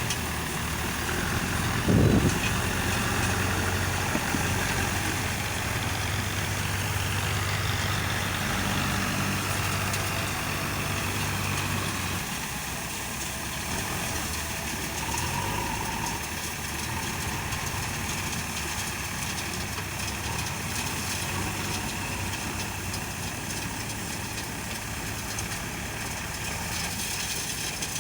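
JCB 3DX backhoe loader's diesel engine running steadily, with a single loud thump about two seconds in. The engine note drops a little about twelve seconds in.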